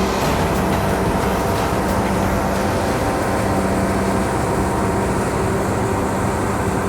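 Large tractor's diesel engine running at a steady speed, a constant drone with no change in pitch.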